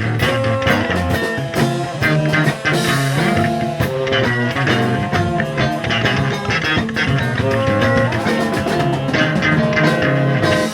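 Reggae band playing an instrumental passage, with electric guitar, bass guitar and drum kit keeping a steady groove.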